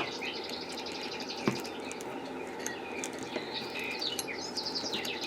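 Small birds chirping and trilling in quick high notes over a steady low hum, with a sharp click about a second and a half in.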